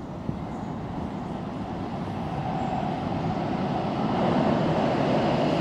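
An electric train approaching through a tunnel: its running rumble grows steadily louder, and a steady whine joins in about halfway through.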